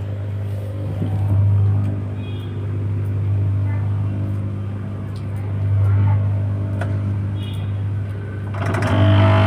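Whirlpool top-load washing machine's motor running with a loud, steady low hum that swells and fades about every four to five seconds, and a hiss joins in near the end. The excessive noise is blamed on a non-original replacement motor capacitor.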